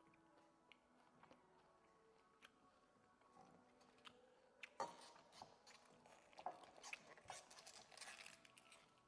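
Person chewing raw cabbage close to the microphone, faint crunching and clicking bites that begin about halfway through and go on irregularly.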